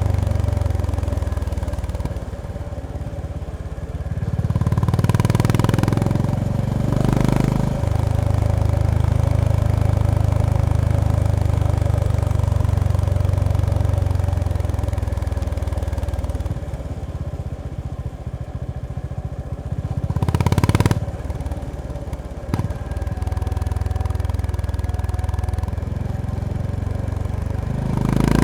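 Honda GB350S (CB350RS) single-cylinder engine and exhaust under way, the revs rising and falling with the throttle. There are louder bursts of throttle twice, about five seconds in and again about twenty seconds in, with quieter stretches between.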